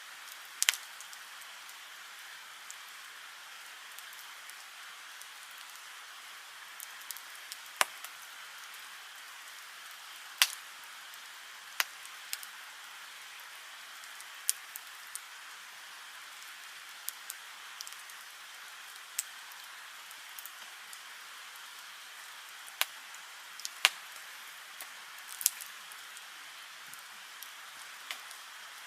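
Wood fire burning: a steady hiss with sharp, irregular crackles and pops, about a dozen loud ones.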